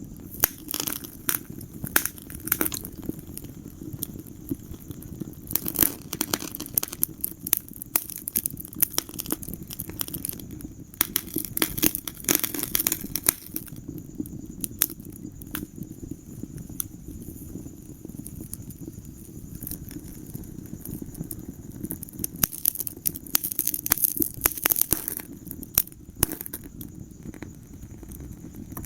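Wood fire crackling in a fireplace: sharp pops and snaps, some in quick clusters, over a steady low rumble of the flames.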